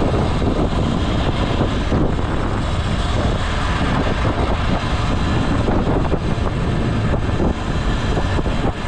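Wind rushing over the microphone, mixed with the steady running and road noise of a motorbike being ridden.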